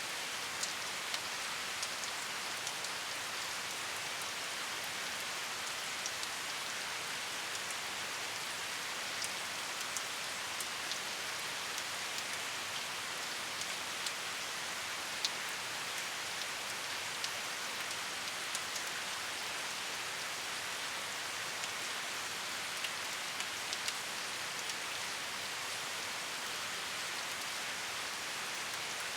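Steady rain, an even hiss with scattered sharper drop taps landing on a surface.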